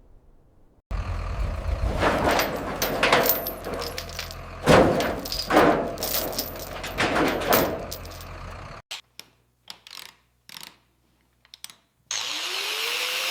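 A power tool runs in repeated surges over a steady low hum, then falls away to a few scattered clicks. A steady hiss starts near the end.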